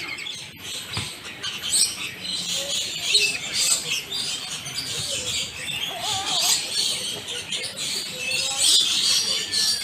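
Many small birds chirping at once, a dense, continuous high twittering.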